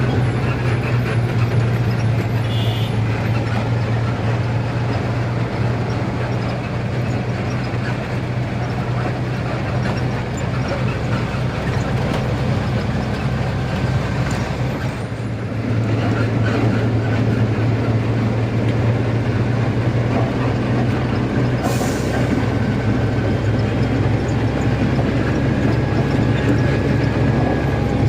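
Truck engine running steadily with a deep hum while the truck descends a long downhill. The hum eases briefly a little past halfway, then picks up again, and there is one short sharp hiss about three quarters of the way through.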